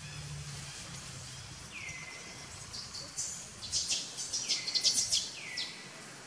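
Birds calling: a whistled call that drops in pitch and then levels off, heard three times, with a burst of rapid high chirps that is loudest about four to five seconds in.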